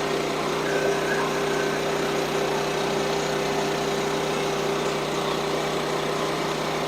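Sawmill's gasoline engine running at a steady speed, a constant drone with no change in pitch or level.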